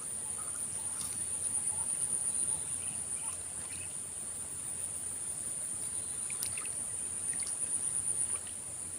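Steady high-pitched buzzing of an insect chorus, with a few faint small ticks late on.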